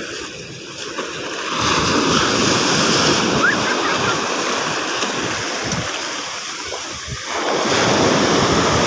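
Sea waves breaking and washing up the beach, the surf swelling about a second and a half in and again near the end.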